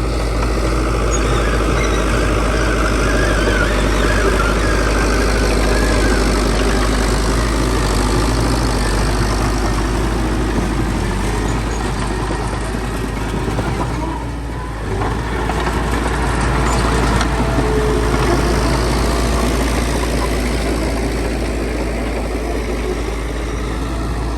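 Heavy diesel engine of construction machinery running steadily, with a brief drop in level about halfway through.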